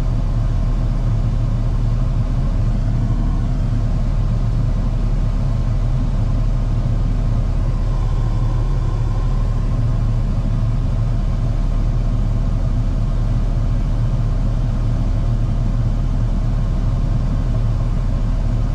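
Steady low drone of a Ford F-150 pickup's engine and road noise, heard from inside the cab while it moves slowly in heavy traffic.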